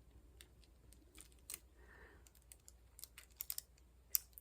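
Small irregular clicks and taps of a diamond painting pen picking up square resin drills and pressing them onto the canvas, a few louder taps among faint ones.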